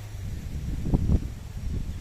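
Strong gusty wind buffeting the microphone as an uneven low rumble, with the strongest gusts about a second in.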